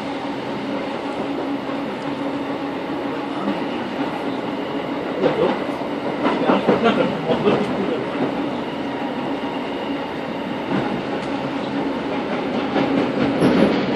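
A Thameslink passenger train running, heard from inside the carriage: a steady rumble and hum of wheels on rail, with bursts of clattering over the track about five to seven seconds in.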